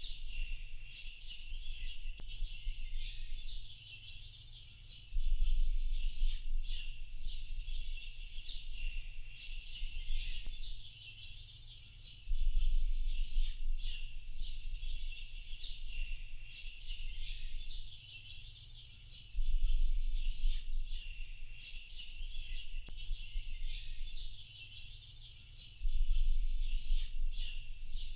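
Dense chorus of many small birds chirping at once, a continuous mass of short high calls. Under it runs a low rumble that swells for a few seconds about every seven seconds.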